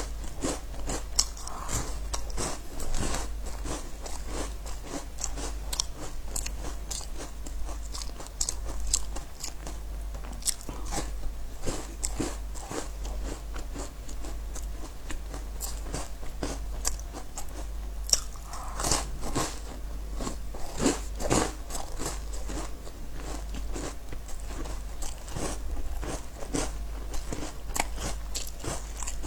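Close-up crunching and chewing of crisp biscuits: a dense run of crackly bites and chews, busiest near the start and again about two-thirds of the way through, over a steady low hum.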